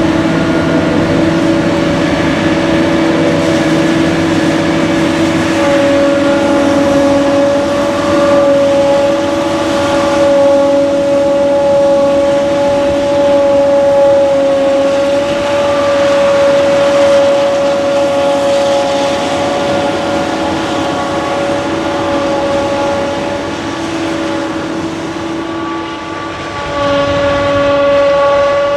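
Heavy harvesting machinery running steadily under load, with a loud, steady high-pitched whine over the engine noise that shifts slightly near the end.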